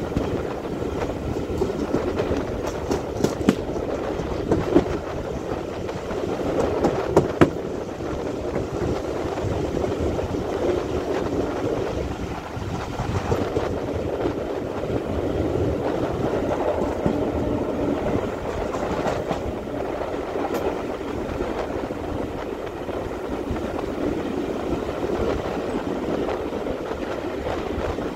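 A train running on the line: a steady rumble of wheels on rail, with several sharp clicks over the rails in the first seven or so seconds.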